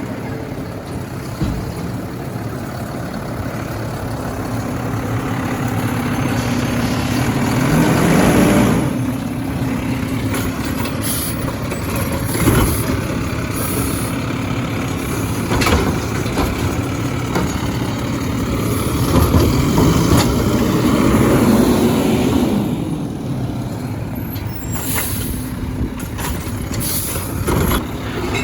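Garbage truck engine running, revving up and falling back twice, with a few metallic knocks and clanks.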